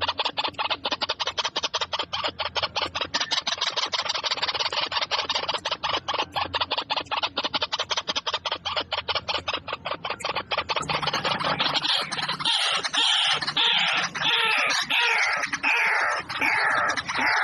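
Birds calling: a fast, even run of sharp clicking notes, about seven a second, then from about two-thirds of the way in, many overlapping falling calls.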